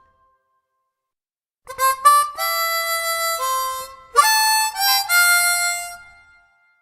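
Harmonica playing a short phrase of held notes and chords, starting nearly two seconds in, then a second phrase that fades out near the end.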